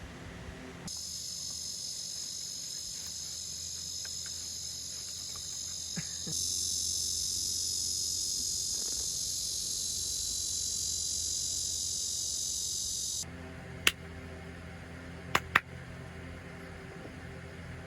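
Cicadas singing: a steady, high-pitched buzzing chorus that starts suddenly about a second in, grows louder about six seconds in, and cuts off abruptly around thirteen seconds in. A few sharp clicks follow near the end.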